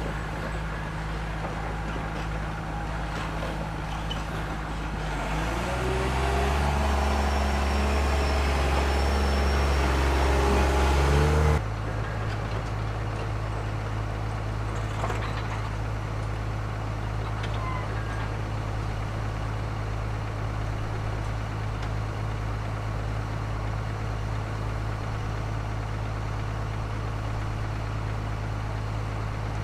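Excavator diesel engine running steadily, revving up and louder for several seconds as it works the hydraulics, then cutting back sharply about twelve seconds in and running on at a steady lower speed.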